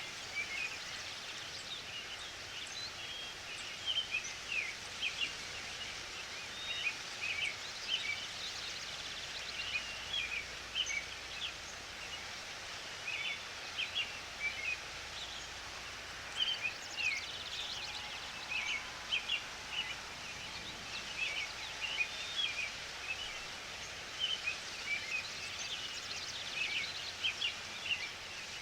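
Small birds chirping, many short irregular calls one after another over a steady outdoor hiss of forest ambience.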